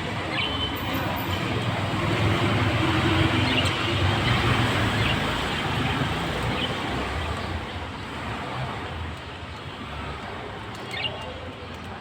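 Road vehicle noise that swells over the first few seconds and then fades, as a vehicle passes, with a few short bird chirps above it.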